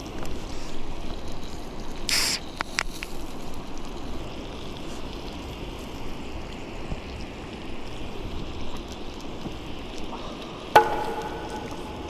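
Steady rushing background noise with a brief hiss and a few sharp clicks about two seconds in, then a metal clank near the end that rings on with a few clear tones before fading.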